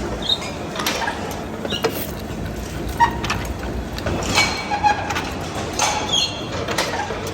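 Machine-shop noise: irregular metallic clinks and knocks over a steady background rumble, with a few short high squeaks.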